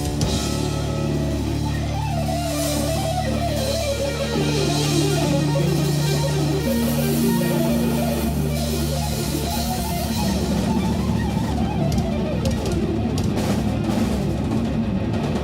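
Live jazz-rock band playing: an electric guitar runs a melodic lead line over bass and a drum kit.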